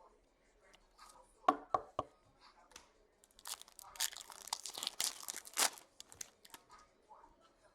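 Three sharp taps, then a trading-card foil pack being torn open and its wrapper crinkling for a few seconds.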